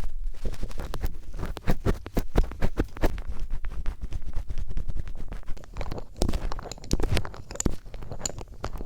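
ASMR ear-cleaning sound: a star-tipped screwdriver scratching and scraping close to the microphone, in a dense, irregular run of crackling scrapes and clicks that grows stronger in the later seconds.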